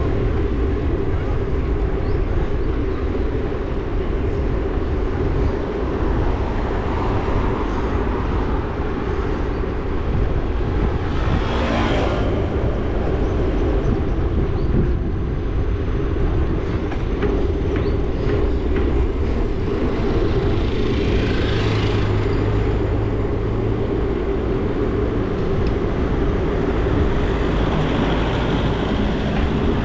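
Steady road rumble and wind noise while riding along a road. Passing traffic swells up briefly about twelve seconds in and again about twenty-two seconds in.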